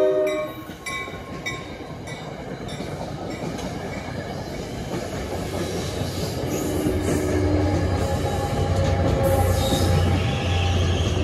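NJ Transit commuter train passing a grade crossing. The horn cuts off about half a second in, then the wheels of the passing coaches rumble and clatter over the rails while the crossing bell rings. In the last few seconds the ALP-45A dual-mode locomotive passes, running on diesel, and a steady low drone builds.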